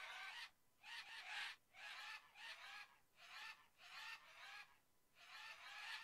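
A flock of birds calling: about seven short calls, each under half a second, repeating roughly once a second.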